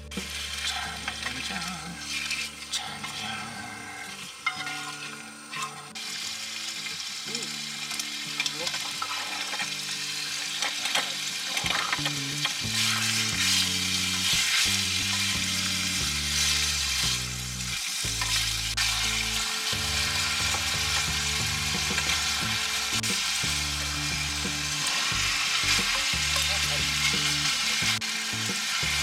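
Pork, bean sprouts and garlic chives sizzling as they are stir-fried in a frying pan, the sizzle growing louder partway through.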